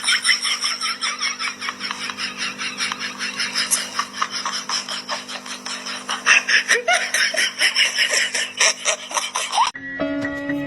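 Hearty, continuous laughter in rapid pulses over a steady low hum; it cuts off suddenly near the end and music starts.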